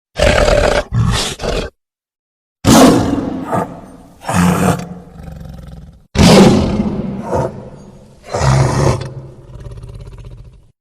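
Sound-effect roars made for the dinosaur Maip macrothorax: two short growls, then after a dead-silent gap a series of loud, harsh roars, each starting abruptly and fading, with shorter calls in between. A second loud roar comes about six seconds in, right after a brief cut to silence.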